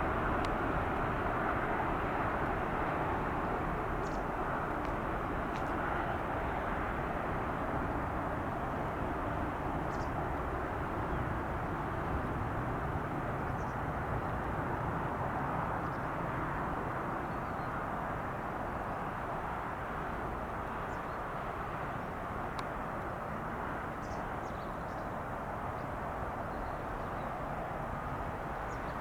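Boeing 787 Dreamliner's jet engines heard as a steady, distant rush of noise that slowly fades.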